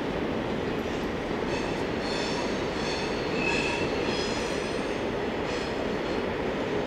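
Freight wagons rolling past in a steady rumble of wheels on rail, with high-pitched wheel squeal coming and going through the middle, loudest about halfway through.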